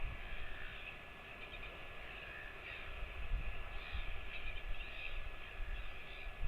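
Faint, scattered bird calls over a low rumble.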